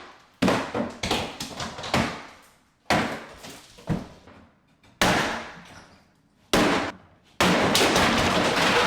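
Interior demolition: a series of sharp crashing impacts as fixtures and wood are struck and broken, each dying away quickly, then a longer continuous crashing and rattling of breaking, falling debris about seven seconds in.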